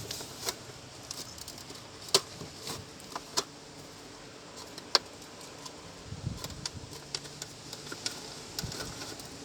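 Plastic clips of a Mercedes Atego instrument cluster's rear cover being pried loose: scattered sharp clicks and snaps, the loudest about two, three and five seconds in, among lighter ticking of plastic being handled.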